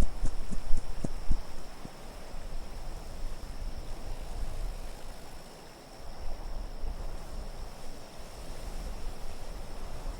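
Designed winter wind ambience: a steady rushing noise with a low rumble that swells and eases, under a faint high steady tone. A quick run of low thumps sounds in the first second and a half.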